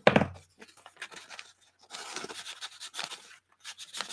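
Paper being handled on a craft table: a sharp tap at the start, scattered small ticks, then about a second and a half of scraping or rubbing, and a few light clicks near the end.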